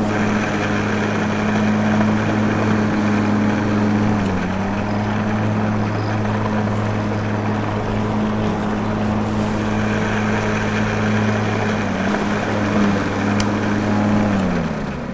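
The small electric motor of a homemade mini tractor model running with a steady hum. Its pitch dips briefly about four seconds in, sags again near the end, and then falls away as the motor slows.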